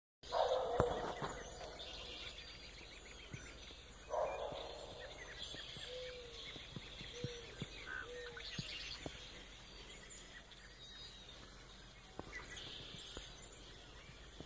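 Several birds calling and singing in the evening, many short calls and chattering phrases overlapping, with the loudest calls near the start and about four seconds in.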